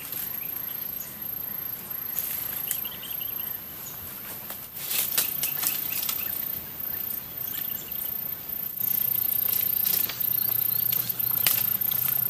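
Footsteps crunching and rustling through dry leaves and undergrowth, irregular and uneven, over a thin steady high-pitched whine.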